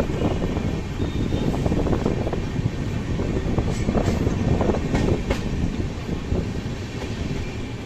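Moving passenger train, the Coromandel Superfast Express: a steady rumble with wheels clattering over the rails, and a few sharper clicks about halfway through.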